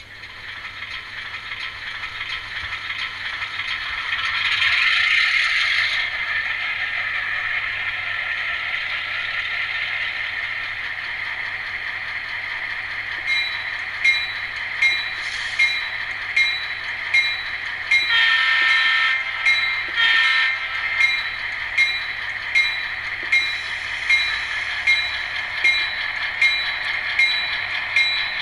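N scale Atlas GP38-2 model's ESU LokSound decoder playing an EMD diesel prime mover through the model's small speaker. The engine sound builds up over the first few seconds and then runs steadily. Two horn blasts come about two-thirds of the way through, and regular clicks of wheels over rail joints come about once a second during the second half.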